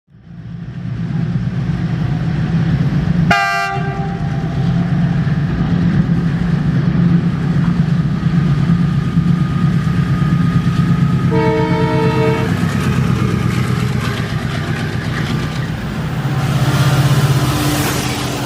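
WDG6G diesel-electric freight locomotive running steadily with a low engine drone. Its horn gives a short blast about three seconds in and a second, lower blast of about a second near the middle. A louder rush of wheels on rail builds near the end.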